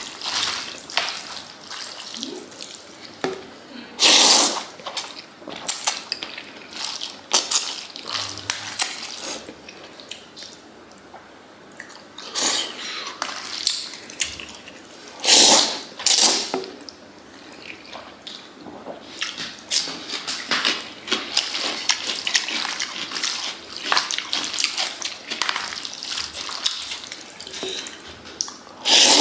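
Kitchen water running and splashing, broken by many short clicks and knocks, with a few louder splashing bursts.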